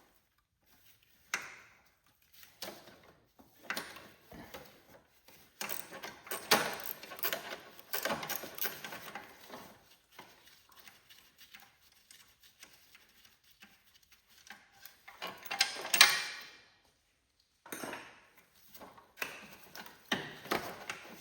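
Hand work on a garden tractor with tools and metal parts: irregular clinks, knocks and scraping, with the loudest scrape about three-quarters of the way through and quiet gaps between.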